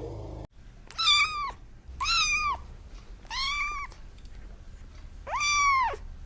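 Domestic cat meowing four times, each a short call that rises and then falls in pitch, with pauses between them; the last meow is the longest.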